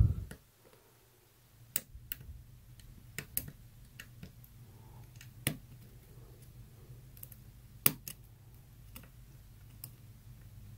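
Light, irregular clicks of a hook pick and tension wrench working the pin stack inside a Wilson Bohannan Model 620 padlock during single-pin picking, about a dozen over the stretch, two of them sharper than the rest.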